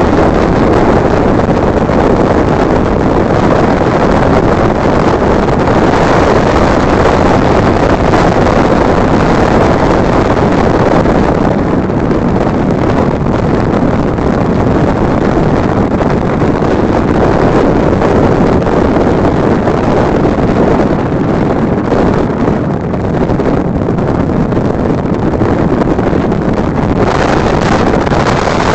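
Wind buffeting the microphone in a loud, steady rush that lets up slightly about halfway through.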